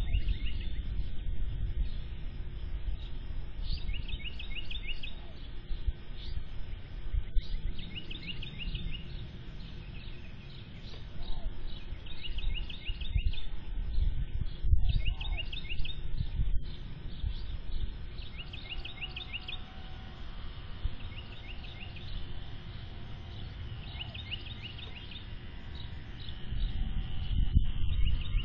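A bird singing a short phrase of quick high notes, repeated about every four seconds, over a steady low rumble.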